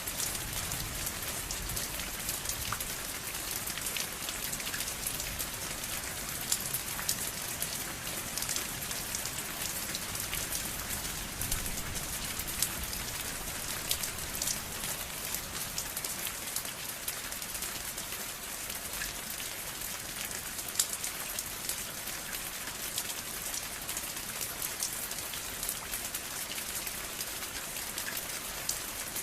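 Steady rain falling on a surface: an even hiss with a dense patter of individual drops.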